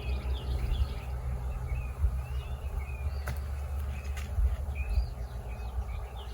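Songbirds chirping and singing in quick, repeated short phrases over a steady low rumble, with a couple of sharp clicks about halfway through.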